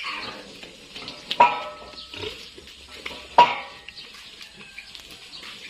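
Two sharp metallic clinks about two seconds apart, each ringing briefly, as of metal objects knocking together. A piglet's squeal trails off at the very start.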